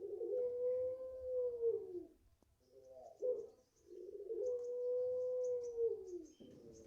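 Puter pelung dove cooing twice: each call is a short opening note followed by a long held coo of about two seconds that drops in pitch at the end. Faint high chirps of small birds sound behind it.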